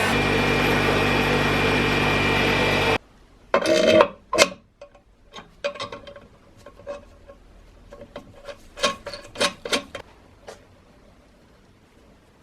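Bench grinder motor running with a steady hum, stopping abruptly about three seconds in. Then a string of scattered sharp clicks and knocks from tools or parts being handled.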